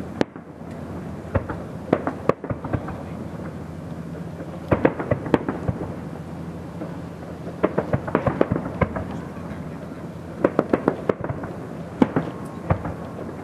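Fireworks display: shells bursting in quick clusters of sharp bangs, a group every few seconds, over a steady low background rumble.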